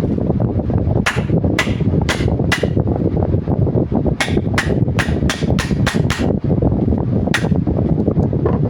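Hammer strikes, about a dozen sharp blows: a run of four, then a quicker run of about seven about four seconds in, and one more near the end, over a steady low rumbling noise.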